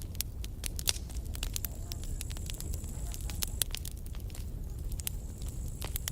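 Wood campfire burning: irregular crackles and sharp pops over a steady low rumble, with a faint high hiss that comes in twice.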